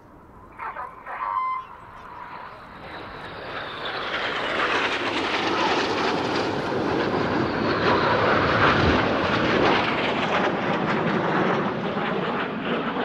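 A formation of BAE Hawk T1 jets making a fast low pass: their Adour turbofan noise swells over the first few seconds into loud, steady jet noise that carries on to the end. A faint falling whine sits in the noise a few seconds in.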